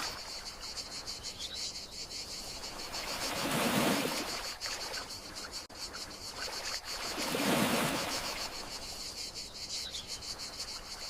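Gentle sea waves washing in about every four seconds, two swells in this stretch, over a steady high chirring of crickets.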